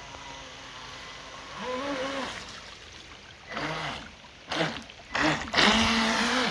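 Water splashing and trickling, broken by several short pitched calls, with the loudest splash and call near the end.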